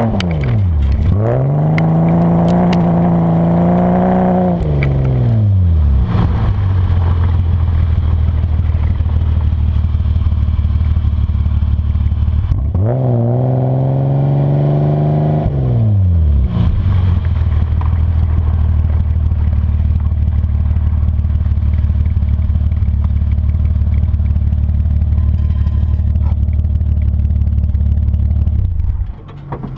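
BMW E30's engine heard from under the front bumper, revving up and down twice, with a steady low drone in between and after. Gravel clatters against the underside during the first revs. The drone drops away near the end.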